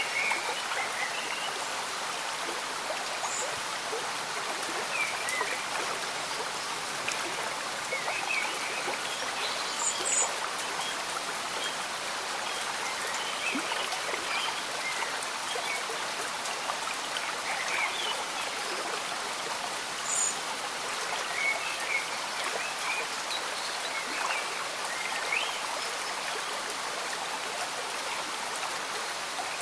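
Slow-moving stream bubbling steadily with gentle rain falling: an even wash of water sound, dotted with short, higher blips that come and go.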